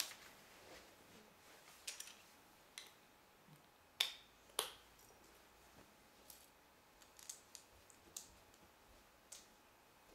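Plastic Lego bricks clicking and snapping together, scattered small clicks with two sharper snaps about four seconds in.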